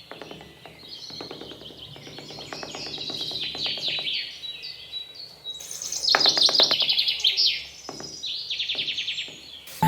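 Birds chirping and singing: quick trills and short falling whistles, louder about six seconds in.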